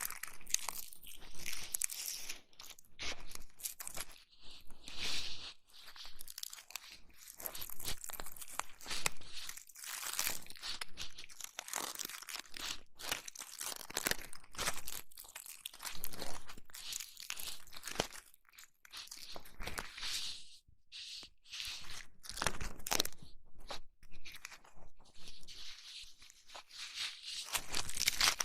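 Close-miked ASMR ear massage: crackly rubbing and scratching on a microphone's ears, in irregular bursts.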